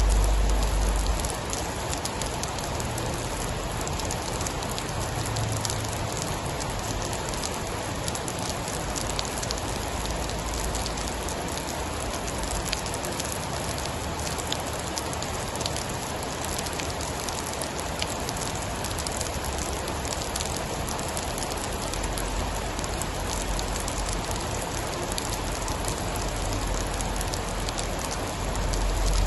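Steady heavy rain pattering on a surface, with low rumbles of thunder swelling briefly at the start and again near the end.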